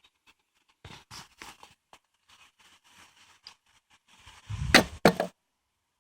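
Wooden beehive frame scraping and clicking against the hive box as it is worked loose and lifted out, ending in a louder rough rustle with a deep rumble and two sharp knocks about five seconds in.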